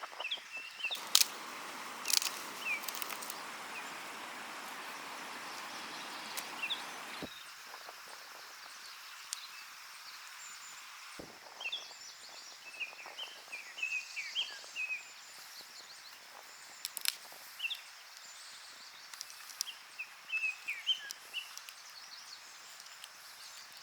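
Outdoor ambience with small birds chirping, many short high chirps scattered throughout. A steady rushing hiss fills the first seven seconds and cuts off abruptly, and a few sharp clicks stand out.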